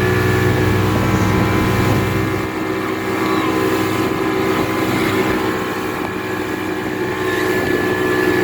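Motorboat engine running steadily at cruising speed; its deepest rumble falls away about two and a half seconds in.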